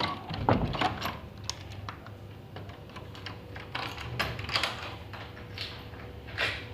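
Irregular run of small clicks and taps with a few stronger knocks, like light objects being handled or small hard bits being bitten.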